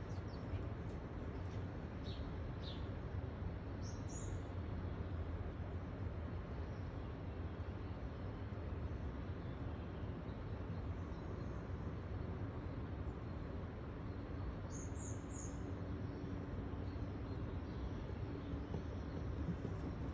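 Steady low background rumble with a few faint, short, high bird chirps: a couple about two to three seconds in, one at about four seconds and another around fifteen seconds.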